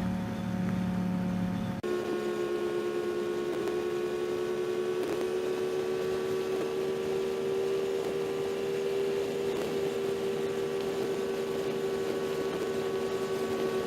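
Motorcycle engine running at a steady cruising speed, a constant droning hum; about two seconds in the drone jumps abruptly to a higher steady pitch and holds there.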